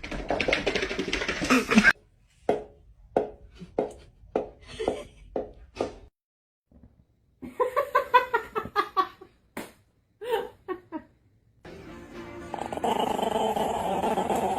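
A dog barking in a run of short barks, about two a second, then giving a longer wavering call and a few more barks. A steadier, fuller sound takes over in the last few seconds.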